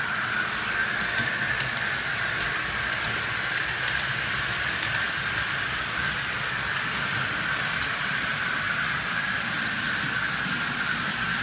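OO gauge model train running on the layout's track: a steady whine from the locomotive's motor over the rumble of wheels on rail, with a few faint clicks.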